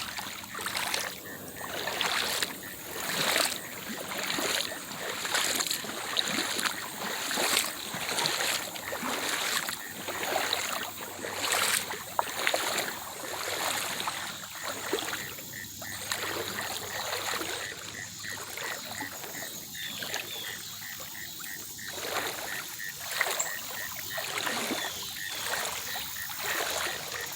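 Boots wading through shallow creek water, splashing with each step, over the running stream.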